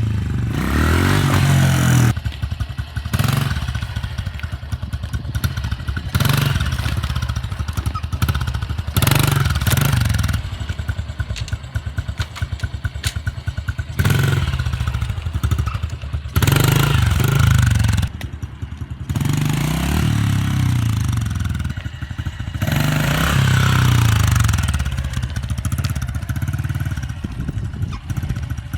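Honda CRF110 dirt bike's small single-cylinder four-stroke engine being ridden, revving up and backing off repeatedly in a series of throttle bursts, as when pulling wheelies.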